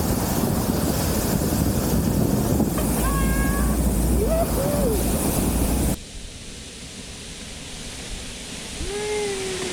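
Steady rushing wind noise on the microphone during a sled run, with a few short high calls. About six seconds in it cuts abruptly to a quieter hiss, and one falling call sounds near the end.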